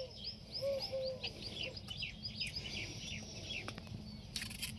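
A bird calling in a rapid series of short, falling, high chirps, about four a second, trailing off after about three seconds. A brief rustle near the end.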